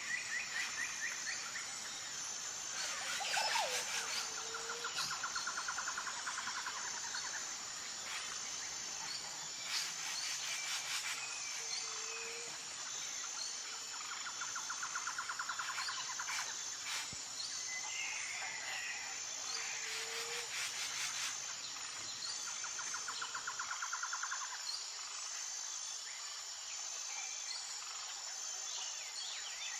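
Outdoor wildlife chorus: insects keep up a steady, high-pitched pulsing drone, while a trilling call about a second and a half long repeats every five to six seconds, with a few shorter chirps in between.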